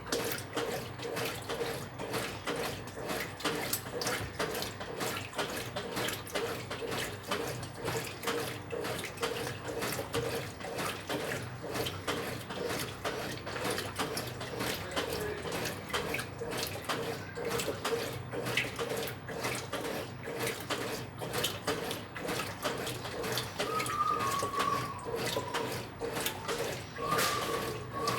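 Brastemp 9 kg washing machine with water splashing and churning in its tub over a steady low hum.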